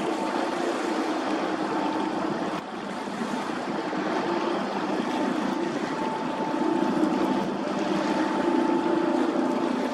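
A motor vessel under way: a steady engine hum with a few constant tones over loud rushing water. It grows a little louder in the second half.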